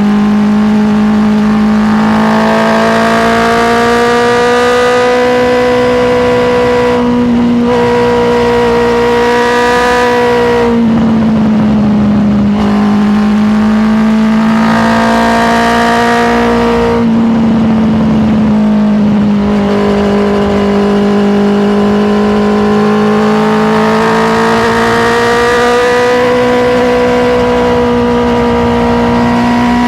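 Honda CBR650R's inline-four engine running under load while riding. Its note holds fairly steady with slow slight rises and dips, and twice, about a third of the way in and again past the middle, it briefly turns rougher and noisier.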